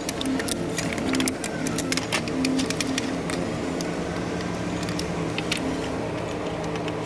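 Irregular clicks and taps from handling bumper parts and wiring connectors during reassembly, busiest in the first few seconds, over a steady low hum.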